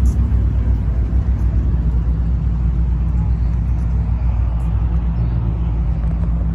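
Steady low rumble of car engines running, with a few even, low droning tones.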